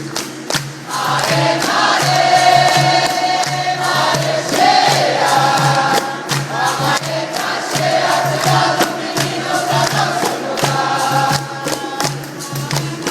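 Capoeira roda music: a group sings a chorus together over a steady percussion rhythm of sharp taps and a pulsing low pitched note. The singing comes in about a second in and carries on to near the end.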